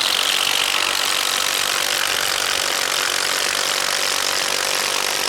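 Two brushless cordless impact drivers, a Metabo HPT triple hammer and a Sata, boring 1-inch spade bits into wood, running steadily at full speed with their hammering mechanisms going.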